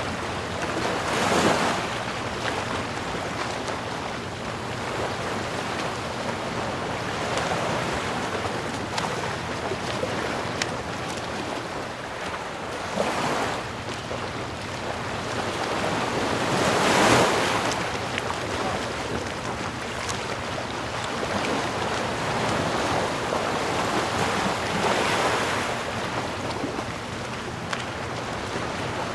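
Ocean surf: waves breaking and washing in as a steady hiss that swells and ebbs, the biggest swell about seventeen seconds in.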